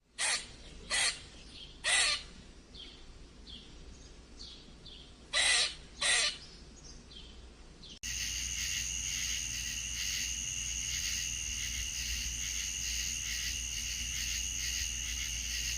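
Five short, harsh bird calls over faint chirping, then about halfway an abrupt change to a steady, high insect-like chirring.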